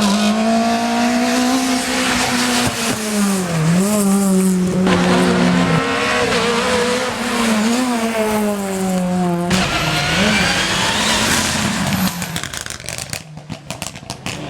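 Hillclimb race car engines running hard at high revs, the pitch dipping briefly at each gear change. The sound switches abruptly about five and about ten seconds in, then rises as a car accelerates, and turns quieter and choppy near the end.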